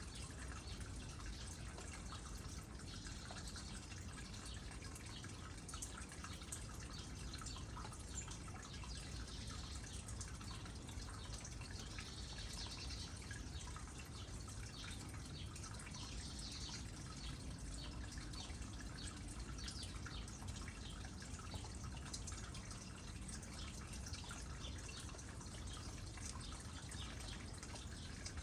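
Water trickling steadily into a small pond, with many small drips pattering throughout.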